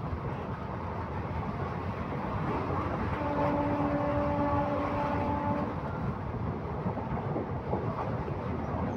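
Passenger train running along the track, heard from inside the carriage as a steady low rumble. About three seconds in, a horn (likely the train's own) sounds one steady held note for about two and a half seconds.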